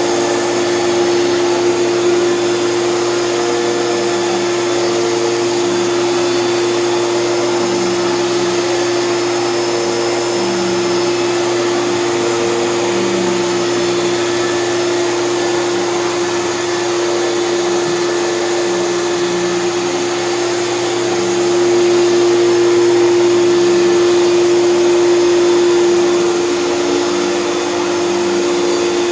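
1988 Hoover Spirit canister vacuum running with a TurboPower 5000 power nozzle attached: a loud, steady motor whine over a rushing hum that wavers slightly about once a second. It grows a little louder about three quarters of the way through.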